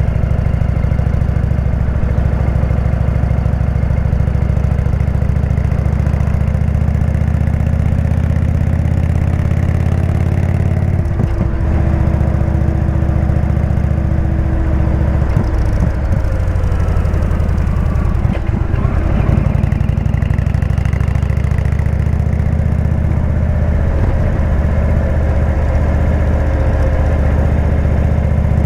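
Indian V-twin motorcycle engine with a Jekill & Hyde exhaust running steadily, its note shifting a few times midway.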